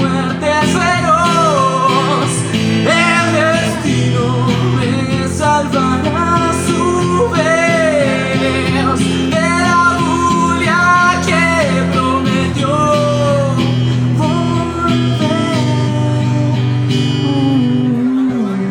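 Live rock song with guitar accompaniment: a lead melody bends up and down over steady chords, and the music starts to die down near the end.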